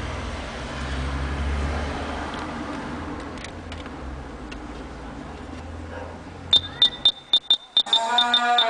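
Low steady rumble inside a car. About six and a half seconds in comes a quick run of about eight short, high beeps. Near the end, music starts playing through the car's stereo system.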